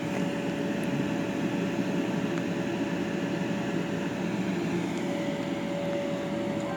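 A steady machine hum with a thin, steady whine above it.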